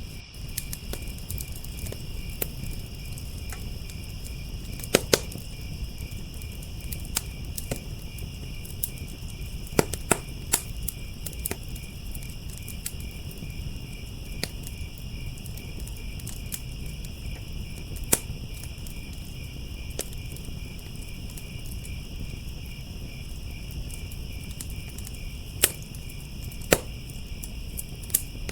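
Wood fire crackling with irregular sharp pops, the loudest a few seconds apart, over steady chirping of crickets.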